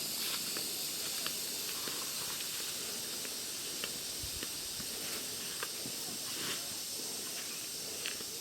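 A steady high-pitched hiss, with scattered light clicks and ticks.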